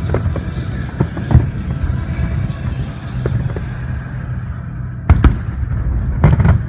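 Aerial fireworks shells bursting: a string of sharp bangs over a steady low rumble, the loudest about a second and a half in and again around five seconds in.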